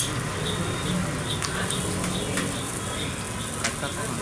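Parathas frying on a large flat street-stall griddle: a steady sizzle, broken by a few scattered sharp clicks and taps.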